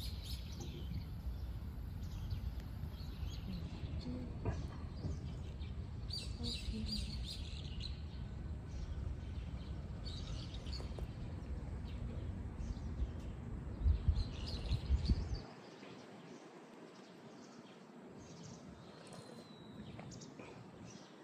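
Small birds chirping now and then over a steady low rumbling background noise. The rumble swells briefly and then cuts off suddenly about two-thirds of the way through, leaving only faint background and the birds.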